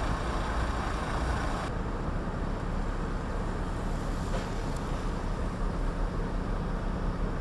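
Steady outdoor vehicle rumble with wind noise, low and even. The higher hiss drops off suddenly about two seconds in.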